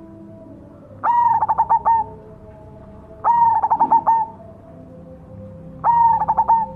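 Perkutut cemani (black zebra dove) cooing: three song phrases, each a held note that breaks into a quick run of short rolling coos.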